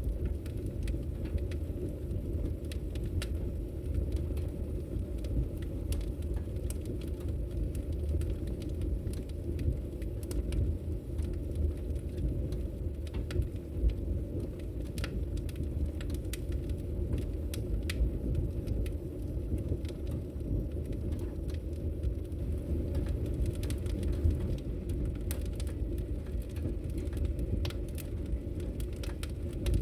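Wood logs burning in a fireplace, crackling: scattered sharp snaps and pops over a steady low rumble.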